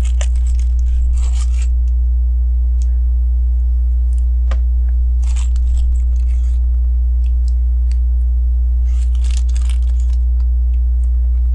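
LEGO pieces being handled: short bursts of plastic rustling and crackling a few times, with single sharp clicks of small plastic parts, over a steady low hum.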